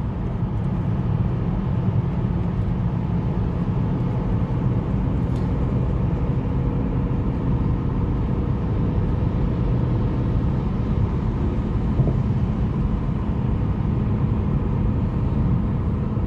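Steady low rumble of a car driving along, with engine and tyre noise heard from inside the cabin.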